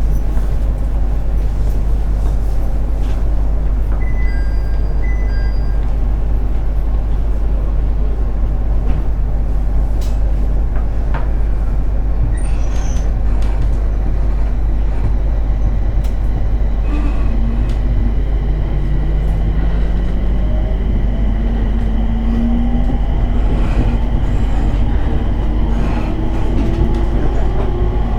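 Inside the cabin of a JR 701 series electric train: a steady low rumble and hum while standing, then about two-thirds of the way in the traction motor and inverter whine begins and rises steadily in pitch as the train accelerates away.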